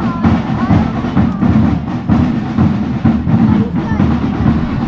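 Marching drums playing in a bonfire procession, with a crowd talking over them.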